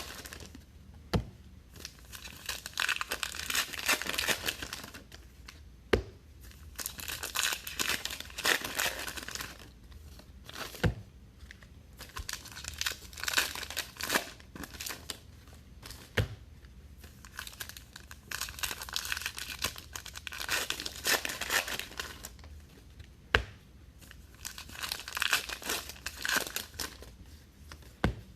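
Baseball card packs being torn open, the wrappers crinkling in spells of a second or two, with a sharp tap about every five seconds.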